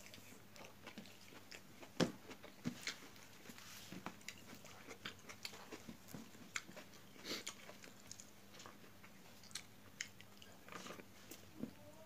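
Close-up eating sounds: chewing and lip-smacking of rice eaten by hand, heard as a run of short, irregular clicks and smacks, the loudest about two seconds in.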